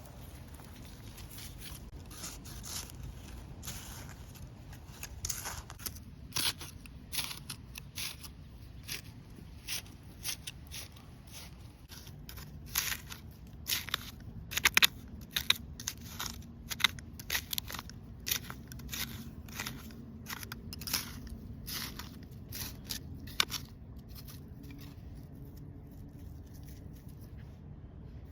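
Scissors snipping repeatedly in short sharp clicks, irregular at roughly one or two a second, stopping a few seconds before the end.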